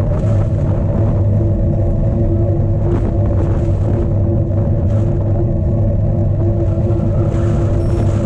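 Strong wind buffeting the microphone of a camera riding on a cyclocross bike: a loud, steady rumble with a steady hum running through it.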